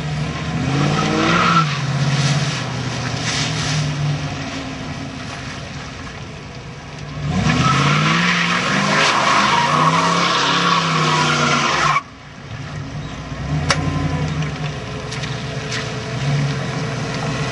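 Ford Mustang's 5.0-litre V8 revving hard and rising and falling in pitch as the car spins donuts, with heavy tyre noise on wet pavement during a long rev from about seven to twelve seconds in. The revs cut off suddenly, and the engine settles to a lower, steadier note as the car drives by.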